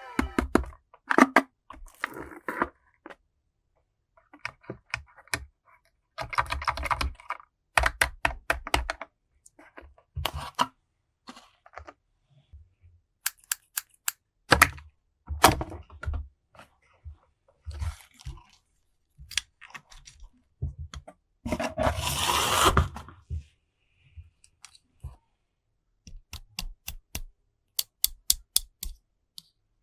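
Plastic toys and packaging being handled: scattered sharp clicks, snaps and knocks, with a couple of longer bursts of crinkling or tearing plastic, about 7 seconds in and again near 22 seconds.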